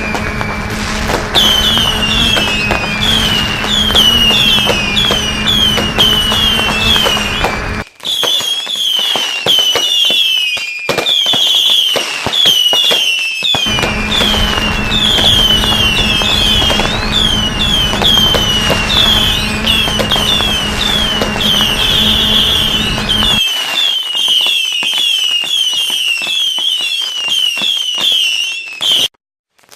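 Fireworks going off, with a long run of rapid whistles, each falling in pitch, about two a second, over a steady low hum that cuts out suddenly twice.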